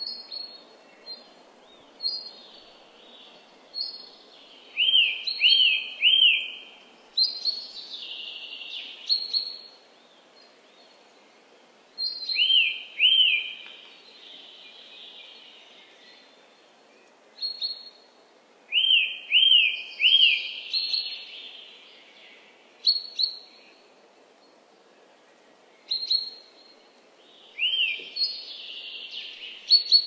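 Woodland birds singing in a dawn chorus. One bird repeats a loud phrase of two or three clear arched whistles every six or seven seconds, and other birds add short high chirps and twittering in between, over a faint steady background hiss.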